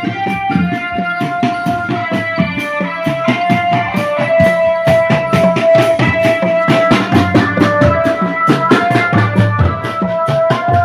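Live barongan procession music: a sustained melody of long held notes over fast, dense drumming.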